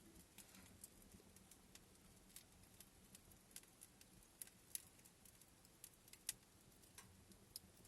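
Near silence with faint, irregular small clicks and crackles scattered throughout, a few of them sharper.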